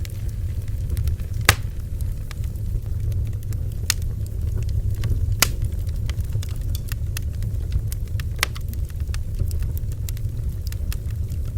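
Bonfire burning, crackling and popping irregularly over a steady low rumble, with a few louder sharp pops.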